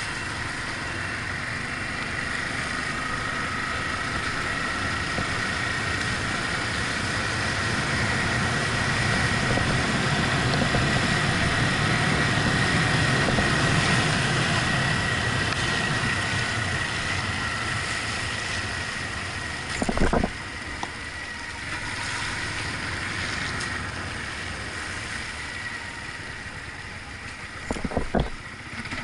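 Yamaha MT-125's 125 cc single-cylinder engine running under a steady hiss of noise, swelling louder for several seconds in the middle and easing off again. Two brief knocks, one about two-thirds of the way through and one near the end.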